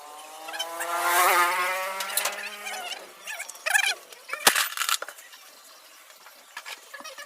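A small power tool running with a buzzing whine that swells and then fades over about three seconds, followed by a few sharp metal clanks from engine parts being handled.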